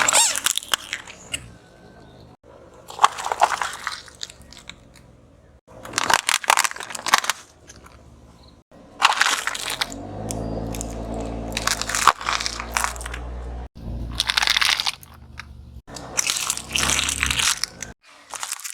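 A car tyre rolling over and crushing objects, heard as a series of about seven separate crunching, crackling bursts with short gaps between them. A low steady engine hum runs underneath through the middle stretch.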